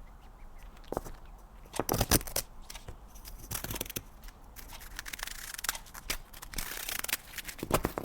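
A cat scratching and pawing at crinkly snack packaging: irregular scratches, crinkles and sharp clicks, a cluster about two seconds in and growing denser from about five seconds in.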